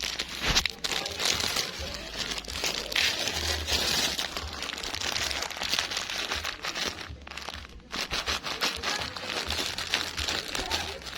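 Dry bird feed pellets being crushed into fine powder: a continuous, irregular crunching and crackling made of many small clicks.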